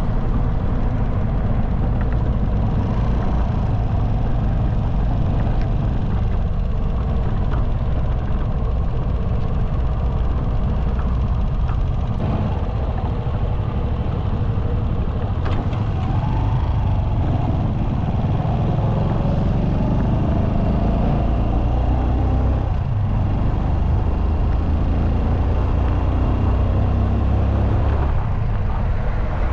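Motorcycle riding at highway speed: a steady, loud rumble of wind and road noise with the engine running underneath.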